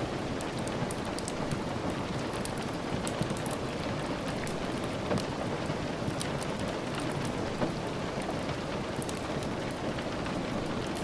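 Steady rainfall, an even wash of noise with many scattered light sharp ticks throughout.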